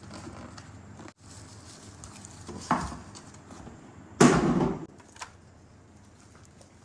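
Handling noise from items being unpacked and set down, with a loud knock about four seconds in.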